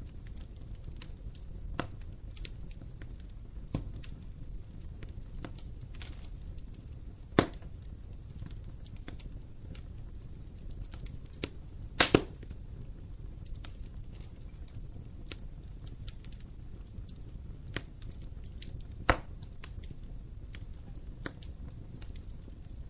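Wood fire burning in an open fireplace: a low steady rumble under scattered crackles, with sharper pops about seven seconds in, a double pop near the middle, and another about nineteen seconds in.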